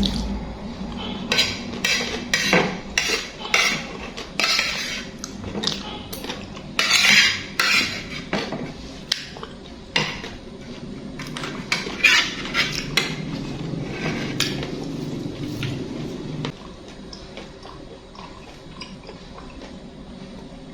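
Cutlery clinking and scraping against a dish while scooping up instant noodles, in quick irregular clicks and scrapes. They come thick for about the first sixteen seconds, then thin out to a few faint clinks.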